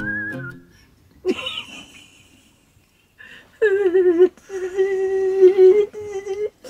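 A person humming in long held notes that waver slightly in pitch, broken into three or four stretches in the second half, after a short rising vocal sound about a second in.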